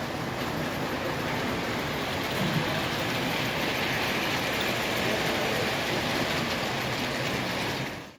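Model train rolling along layout track: a steady rolling and rumbling noise from the wheels and cars.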